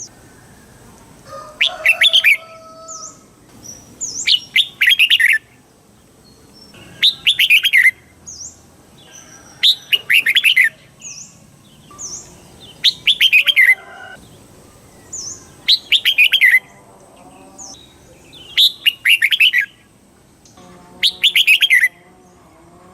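Red-whiskered bulbul singing its loud, quick warbling song phrase about every three seconds, eight times over, with faint short chirps of other birds in between.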